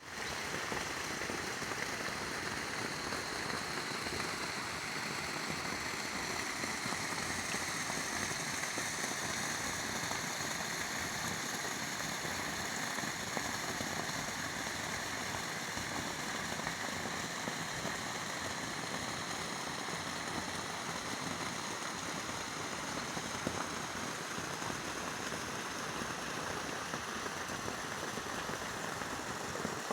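A steady rushing sound like running water, with faint high whining tones drifting slowly in pitch above it.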